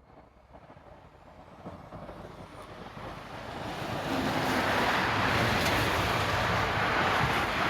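A vehicle approaching, its rumble growing steadily louder over about four seconds, then staying loud as it passes close by.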